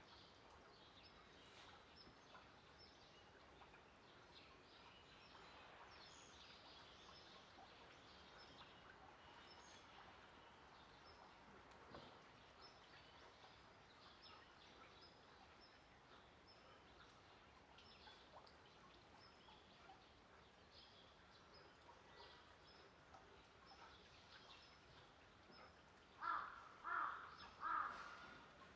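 Faint outdoor ambience with small birds chirping off and on. Near the end come three short, loud calls in quick succession.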